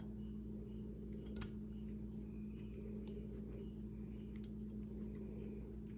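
A steady low hum with a few faint, light clicks of small metal parts and a driver being handled while the optic's mounting screws are started by hand.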